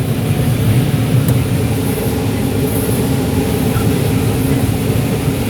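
John Deere 9760 STS combine running steadily while harvesting corn, heard from inside the cab: a constant low mechanical drone.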